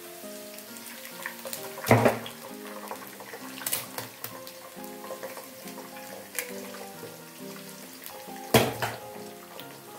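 Two eggs cracked into a wok of shallots and garlic frying in a little oil over low heat. Each lands with a short, loud burst, the first about two seconds in and the second near the end, with light sizzling crackle in between.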